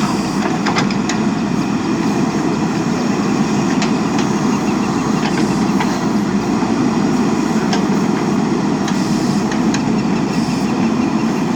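JCB backhoe loader's diesel engine running steadily while it digs, with a few short metallic knocks from the arm and bucket here and there.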